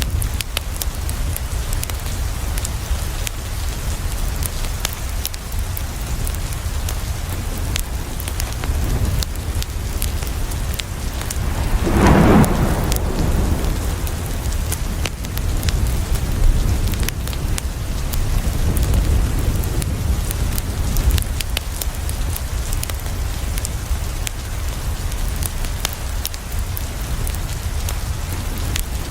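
Steady rain with a deep low rumble and many scattered sharp ticks, and a louder rushing burst lasting about a second, about twelve seconds in.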